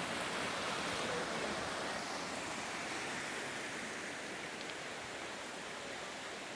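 Mountain stream rushing: a steady, even noise with no pauses.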